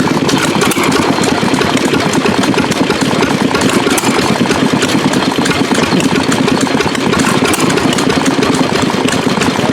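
1928 2 hp Stover stationary gas engine running steadily, firing in a rapid, even beat.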